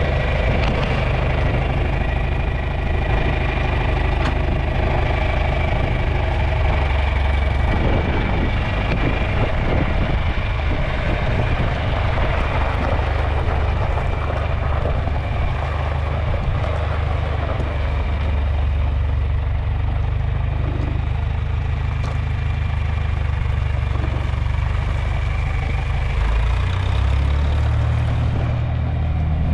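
John Deere 3010 propane tractor's four-cylinder engine running steadily, its note shifting briefly near the end.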